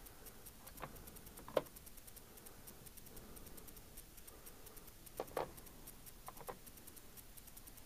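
A few faint, scattered clicks and light knocks of small parts being handled, some in quick pairs.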